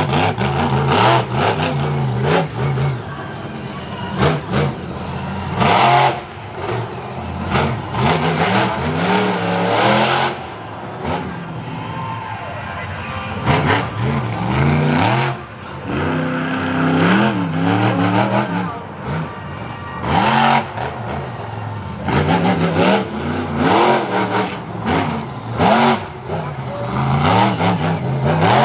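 Motorsport vehicle engines revving hard and repeatedly, the pitch climbing and falling as the throttle is opened and closed, with loud surges throughout.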